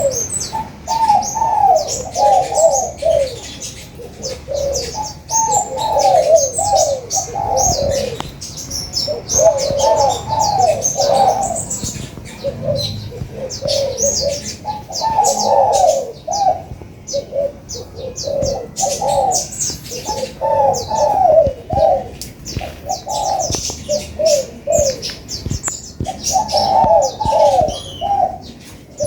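Spotted doves cooing in repeated short phrases every two to three seconds, over continual high, quick chirping of sunbirds.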